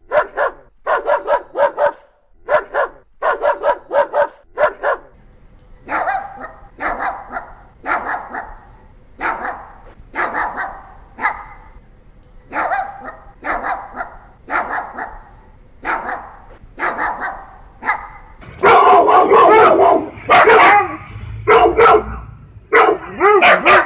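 Dogs barking in quick bursts of several barks at a time. About five seconds in the barks turn deeper and come in groups of two or three, and near the end they give way to loud, nearly continuous barking.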